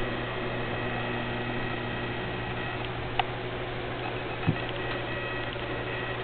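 Steady low hum and hiss with two faint clicks, about three and four and a half seconds in.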